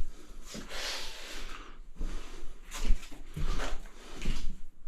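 Tools and objects being handled and moved about while searching for something to use: irregular clatter, scraping and knocks, with one sharper knock about three seconds in.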